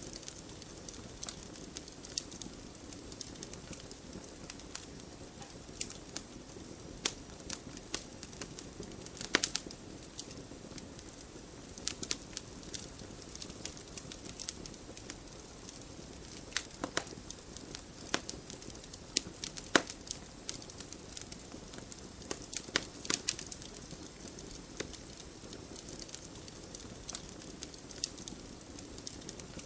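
Wood fire burning in a fireplace: a steady low hiss with irregular sharp crackles and pops, a few louder pops about a third of the way in and two-thirds of the way in.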